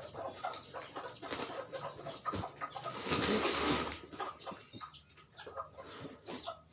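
Bantam chickens clucking, with short scratchy clicks throughout and a loud burst of rustling about three seconds in that lasts about a second.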